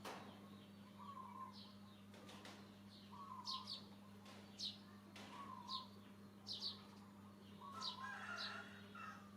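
Faint bird calls: a short call repeated about once a second, with quick, higher chirps falling in pitch in between, over a steady low hum.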